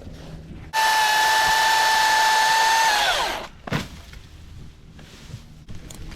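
Cordless electric chainsaw triggered with an abrupt start, whining at a steady high pitch for about two seconds, then spinning down with a falling whine after the trigger is released. A short thump follows just after.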